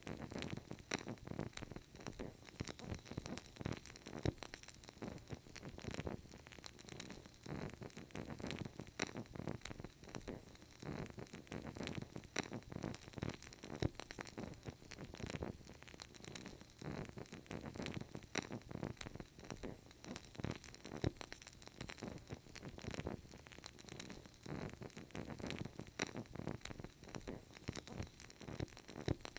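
Burning candle crackling: many small irregular pops and clicks over a soft, steady hiss.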